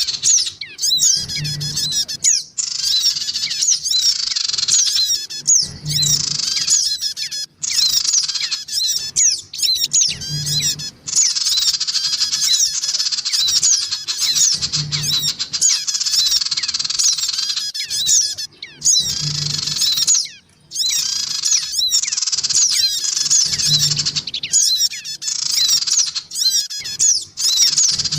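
Bird-lure recording of sogon birds calling noisily: dense, rapid, overlapping high chirps and squeaky trills with hardly a break. A short low hum repeats about every four and a half seconds, suggesting a looped track.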